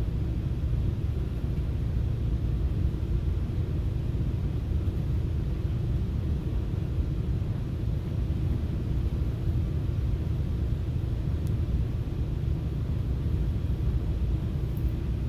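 FrontRunner commuter train under way, heard from inside the passenger car: a steady low rumble of the running train on the rails.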